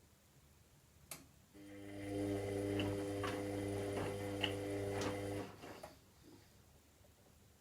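Washing machine drum motor on a synthetics wash: a click, then the motor hums steadily for about four seconds as it turns the drum, with a few light clicks, and stops.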